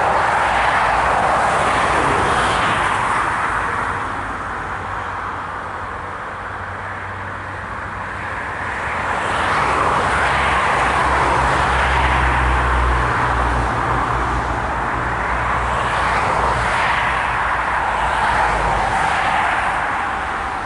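Airbus A380's four jet engines roaring on takeoff. The roar eases about four seconds in, then swells again with a deep rumble.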